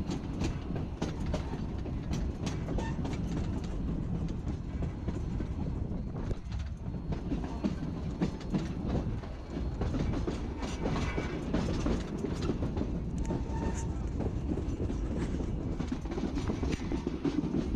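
Narrow-gauge passenger train rolling along, heard from on board: a steady low rumble of the cars with the wheels clicking over the track.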